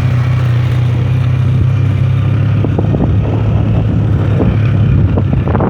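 Motorcycle engine running with a steady low hum, becoming rougher and less even from about halfway through.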